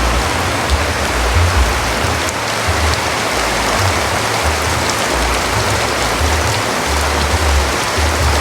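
Heavy rain falling in a steady, dense hiss, with irregular low rumbles of wind buffeting the microphone.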